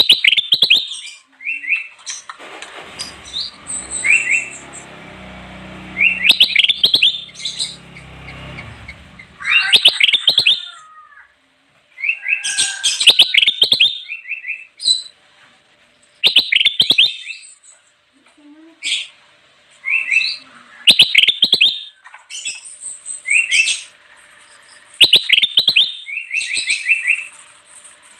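Kutilang emas bulbul singing: bursts of quick, chirpy whistled phrases repeating every couple of seconds with short pauses between. Under the first several seconds of song there is a low rumbling noise.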